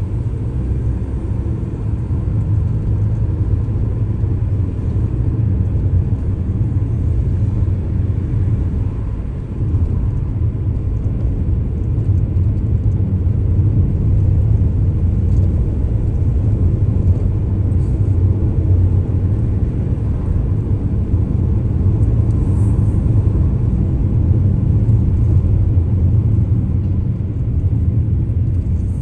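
Steady low rumble of a moving car's road and engine noise, with no change in pace.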